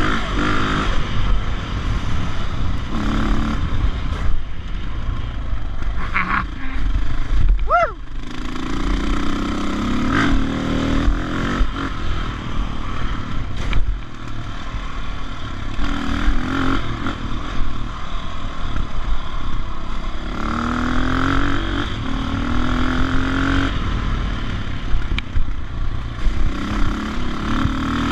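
Dirt bike engine under way on a trail ride, its pitch repeatedly rising as the throttle is opened and falling back as the rider shifts and eases off, with a brief sudden dip about eight seconds in.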